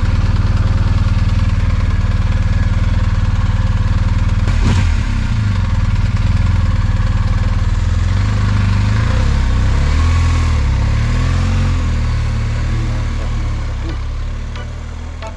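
Motorcycle engine running at low speed, its pitch rising and falling through the second half as the revs change, with a single knock about four and a half seconds in.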